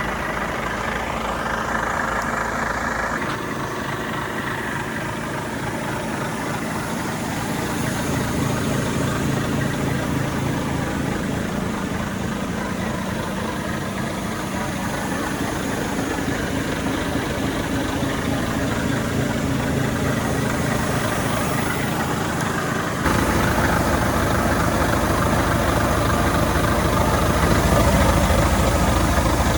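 Gas-powered Volvo FH 500 truck engine idling steadily. About 23 seconds in it suddenly gets louder, with more low rumble.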